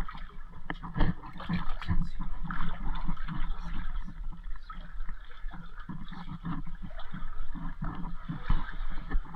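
Water sloshing and splashing, uneven and continuous.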